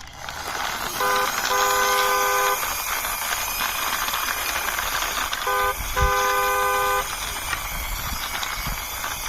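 A car horn sounding a short toot then a longer one, twice, over a steady background hiss.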